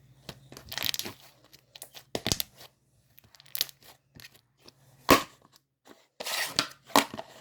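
Slime being squished, stretched and pulled apart by hand, giving irregular crackling, tearing sounds, with one sharp snap about five seconds in.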